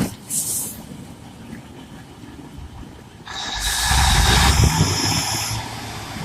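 A diesel train rumbling at low engine speed. About three seconds in, a loud steady hiss like air being released starts suddenly, and it cuts off a couple of seconds later while the low rumble grows.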